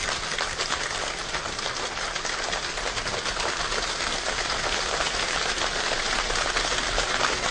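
A group of people imitating rainfall: a dense, steady patter of countless small clicks that sounds like heavy rain, growing a little louder toward the end.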